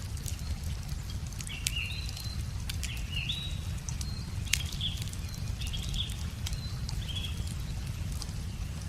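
Wood fire crackling with sharp scattered pops, while a bird gives a series of short high chirps through the middle of the stretch. A steady low rumble runs underneath.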